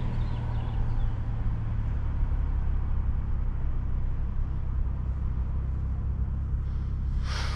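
Turbocharged 3.0-litre inline-six of a BMW 540i with a catback exhaust, downpipe and stage 2 tune, running steadily without revving, heard from inside the cabin while driving. A brief rush of noise comes in near the end.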